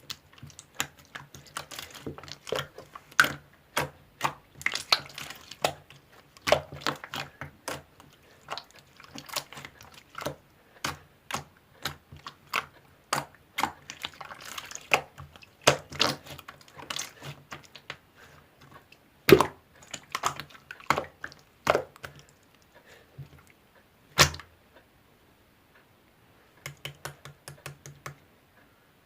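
Green slime being squeezed and poked by hand, making an irregular stream of sticky clicks and small air-bubble pops, with two sharper pops in the second half.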